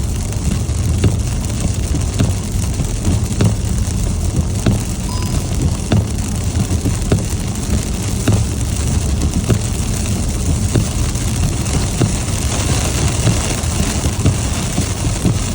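Car driving in heavy rain, heard from inside: a steady low road and engine rumble under the hiss of rain, with sharp ticks of drops striking the car. The rain hiss swells in the last few seconds.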